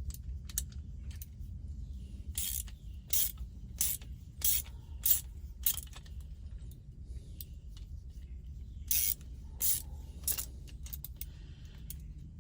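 Socket ratchet wrench working a nut on the truck's linkage: short bursts of ratchet clicking about two-thirds of a second apart, one run in the first half, a pause, then a few more strokes near the end.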